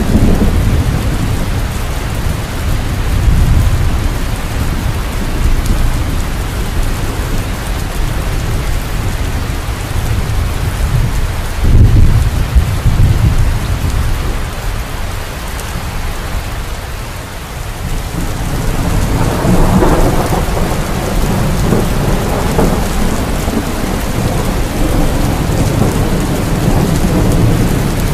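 Steady heavy rain with rolling thunder: a loud low rumble about twelve seconds in, and another long roll of thunder building from about two-thirds of the way through.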